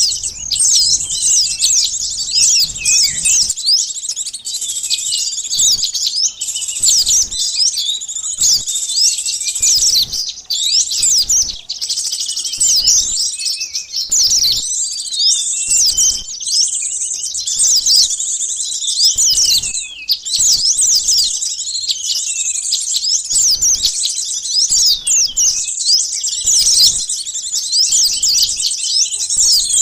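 A dense chorus of many sunbirds chirping and twittering in rapid, overlapping high notes with no pause. It is a noisy-flock bird-lure call, used to draw small wild birds in.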